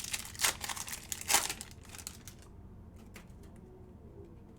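Crinkling and rustling of trading-card pack wrappers and cards being handled, loudest in two short bursts in the first second and a half, then a few light clicks.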